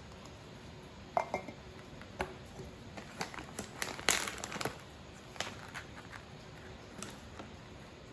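A run of small clinks and crinkles, a glass and packaging being handled for coffee, over a steady hiss; the loudest crinkle comes about four seconds in.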